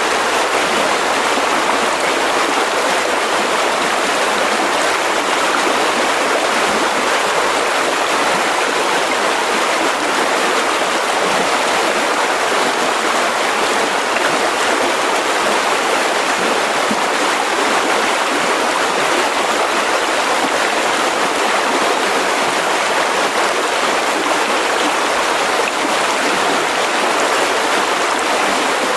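Mountain river rushing steadily over rocks, an even, continuous water noise.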